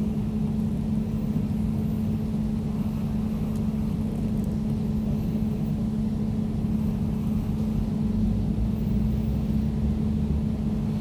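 Air conditioner running with a steady low hum: a constant deep tone with a fainter higher tone above it, over an even rush of air.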